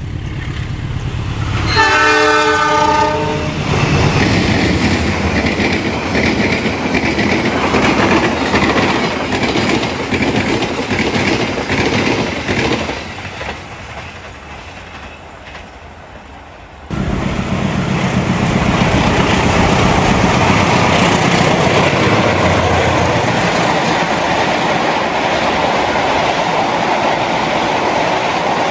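Indonesian diesel locomotive sounds its horn once, a chord-like blast of about a second and a half, about two seconds in. A passenger train then rumbles past with wheels clicking over the rail joints and fades away. After a sudden cut, another string of passenger carriages runs past steadily.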